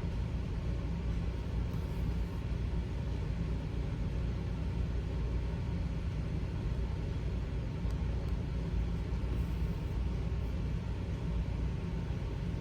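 A steady low rumble with a faint hiss above it, unchanging.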